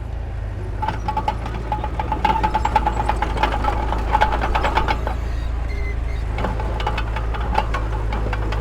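Heavy diesel construction machinery running with a steady low drone, with repeated clanks and knocks throughout. A pulsing high whine sounds from about a second in until about five seconds.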